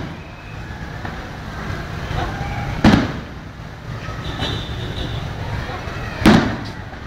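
Fireworks bursting with two loud bangs about three and a half seconds apart, each followed by a brief echo, over a steady murmur of crowd voices.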